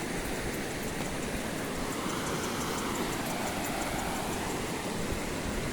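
Steady rush of water from a waterfall and its stream, an even hiss with no breaks.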